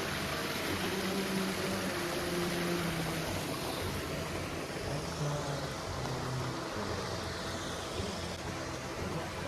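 Steady rush of flowing creek water, with soft background music playing short held low notes over it.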